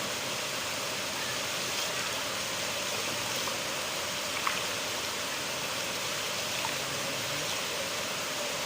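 River water flowing and rushing steadily, with a few brief faint plinks of water.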